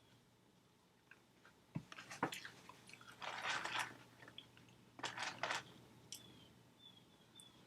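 Close-miked chewing and crunching of McDonald's french fries, in uneven bouts of crisp bites after a quiet first second. The fries look to the eater as if they had been fried a couple of times.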